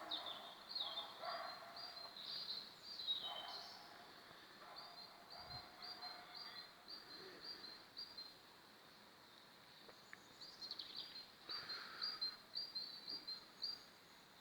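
Budgerigars chirping and chattering: bouts of short, rapidly repeated high chirps, with a lull about midway.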